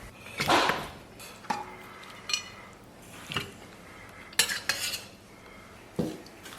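Metal cookware clanking and clinking, about six separate knocks, some with a short metallic ring, as the lid of a pressure cooker is handled.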